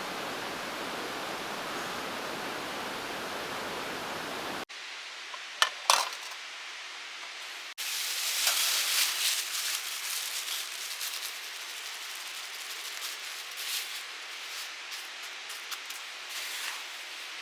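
Steady hiss of rain, then two sharp metallic clinks of camp cookware, then rain pattering with many small ticks and clicks.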